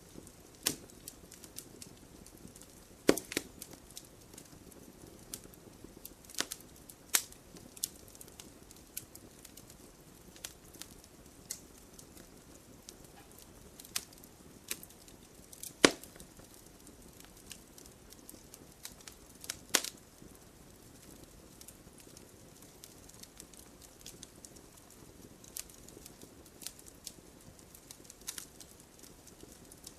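Wood campfire crackling: irregular sharp pops and snaps over a soft steady hiss, with a few louder pops scattered through.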